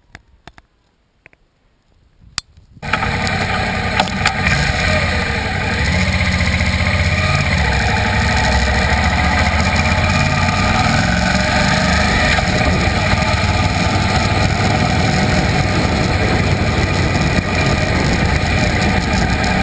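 A few faint clicks, then about three seconds in a motorcycle engine sound comes in abruptly and runs steadily.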